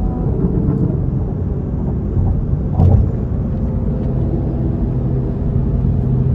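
A car's engine and road rumble while driving, steady throughout, with a brief louder surge about three seconds in and a steady humming engine note from about four seconds in.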